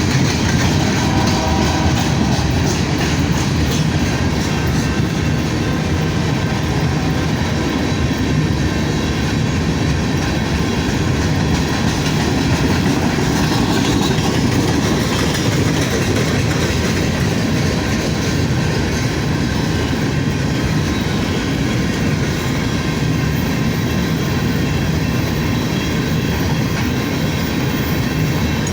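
A train's wheels running over the rails as it rolls past at speed, a steady, loud, unbroken rumble.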